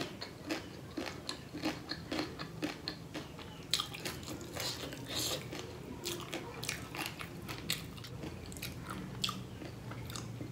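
A mouthful of crunchy chatpatey, a spicy mix of dry noodles, onion and green chilli, being chewed: a steady run of small crunches and mouth clicks, with a denser burst of crunching about four to five seconds in.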